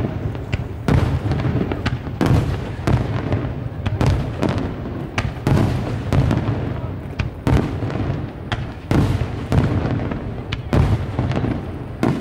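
Aerial fireworks shells bursting one after another in a steady barrage, about one or two sharp bangs a second over a continuous low rumble.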